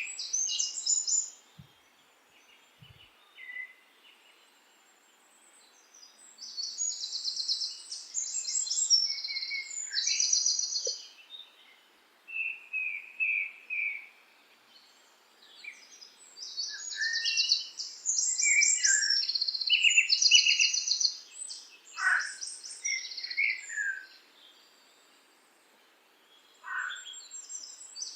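Songbirds singing in phrases of rapid, high chirps and trills, with pauses of a second or two between phrases and a few notes sliding downward in pitch.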